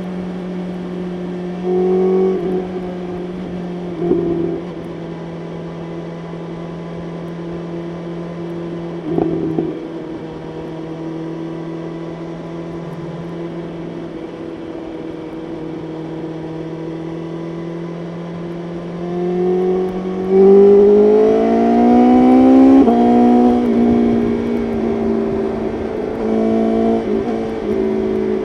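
BMW S1000RR's inline-four engine heard onboard, holding a steady pitch at highway cruise with a few short louder swells. About twenty seconds in it accelerates hard, the pitch climbing and getting louder, with a gear change a couple of seconds later.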